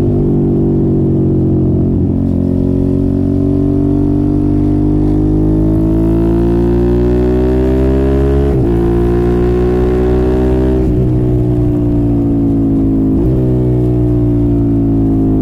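Motorcycle engine with an aftermarket exhaust, heard from the bike while riding. It pulls with rising pitch, drops sharply at an upshift about halfway through, then falls off as the throttle closes, with a quick jump in pitch near the end like a downshift.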